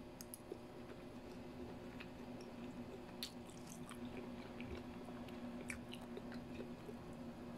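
Someone chewing a mouthful of fried tofu and chicken, with scattered small clicks over a steady low hum.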